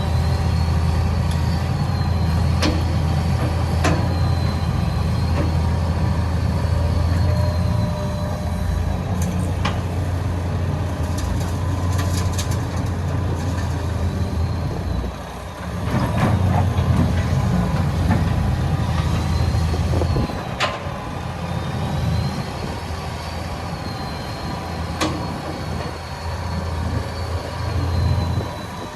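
Hitachi EX200 excavator's diesel engine working under load, dipping briefly about halfway through and then pulling hard again, with a faint wavering high whine over it. A few sharp metallic knocks come through, about four in all.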